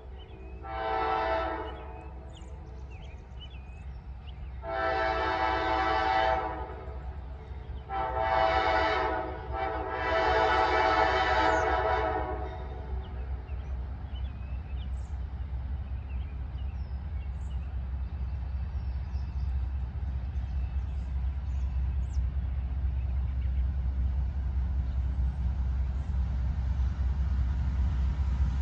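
Diesel locomotive air horn sounding four blasts, two short and two longer, the last ending about twelve seconds in, over the steady deep rumble of the passing train, which then carries on alone and grows slowly louder.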